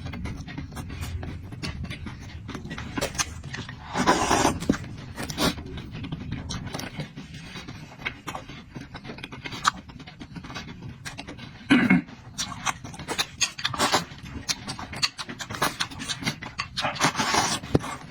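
A person eating close to the microphone: chewing and lip-smacking with many small mouth clicks, and a few louder breathy bursts, about four seconds in, near twelve seconds and around seventeen seconds.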